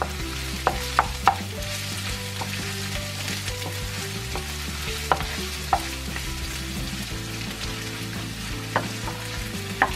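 Sliced garlic and ginger sizzling in a little oil in a ceramic-coated pan while a wooden spoon stirs them, with a few sharp taps of the spoon against the pan.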